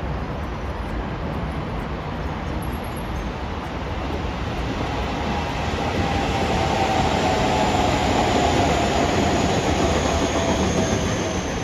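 A train running past on the tracks, a steady rumble that swells toward the middle and eases near the end, with a faint high whine over it.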